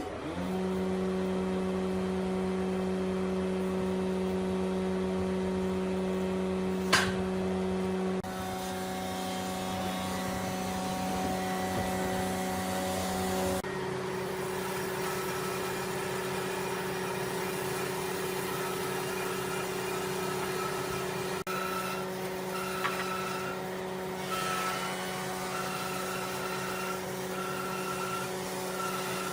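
An electric power tool's motor running at steady speed, with a sharp knock about seven seconds in; its hum changes abruptly twice, and near the end a higher tone pulses on and off.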